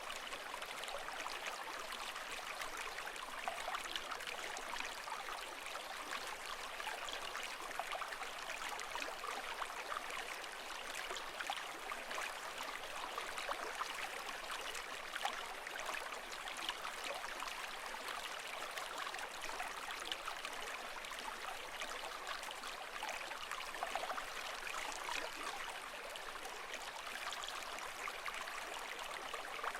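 Continuous trickling, splashing water, steady throughout with many small droplet-like flecks and no rise and fall of waves.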